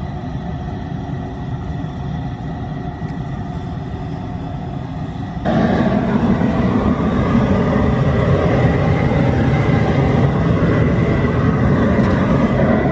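Propane burner running steadily under a pot of maple sap coming up to a boil. The sound gets abruptly louder about five and a half seconds in.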